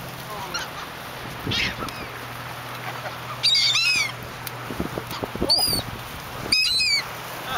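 Gulls calling: a series of short, harsh, mewing calls, loudest in a cluster about halfway through and again near the end, over a faint low steady hum.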